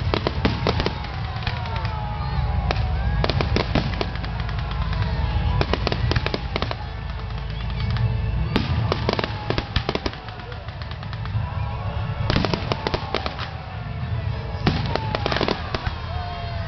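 Fireworks display: clusters of sharp shell bursts and crackles, coming again and again, over a steady low rumble.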